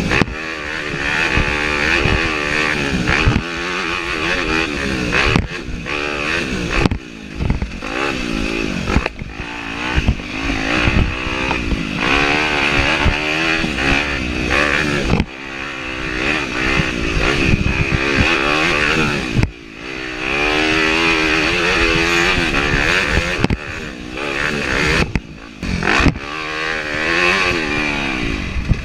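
Yamaha YZ250F four-stroke single-cylinder dirt bike ridden hard on a trail. The engine revs up and down continuously, with several short throttle chops where it drops away suddenly, and some clatter from the bike.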